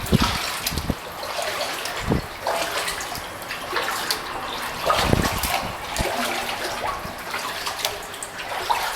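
Kayak paddle dipping and pulling through calm pond water, irregular splashes with water trickling off the blades between strokes.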